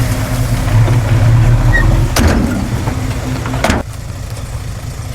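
Heavy diesel engine of earthmoving machinery running steadily, with two short rushing noises about two and three and a half seconds in, after which the sound drops suddenly to a quieter engine hum.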